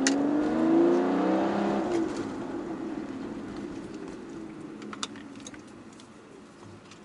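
A car engine revving up and pulling away, heard from inside a car cabin: its note rises in pitch, is loudest about a second in, then fades steadily over several seconds.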